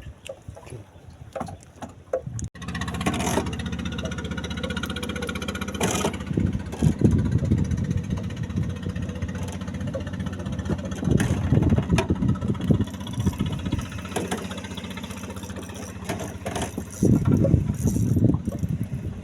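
A boat's engine running steadily, its low drone starting abruptly about two and a half seconds in after a quieter stretch of wind and water noise.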